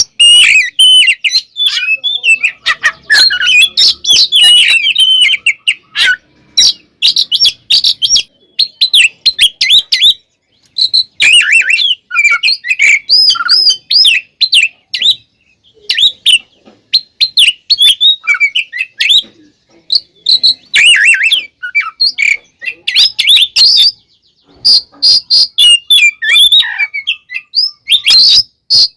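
Oriental magpie-robin (kacer) singing loudly in a rapid, varied stream of whistles, chirps and harsh notes, in phrases broken by short pauses: the agitated full 'fighting' song that keepers call gacor.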